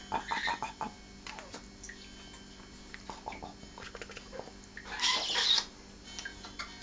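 African grey parrot making short clicks and chatter, then a louder rough call lasting about half a second around five seconds in.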